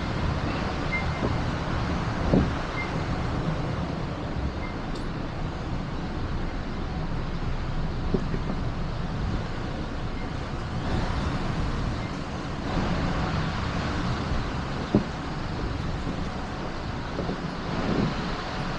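Steady car and traffic noise: a car's engine running as it backs up and turns around, with a few short knocks.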